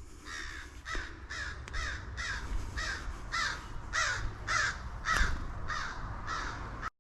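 House finch giving a harsh call over and over, about two calls a second, over a low rumble; it cuts off suddenly near the end.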